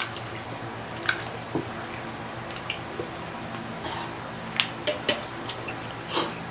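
Close-miked eating: scattered short crunches and wet mouth clicks from chewing crispy pata (deep-fried pork knuckle), over a steady low hum.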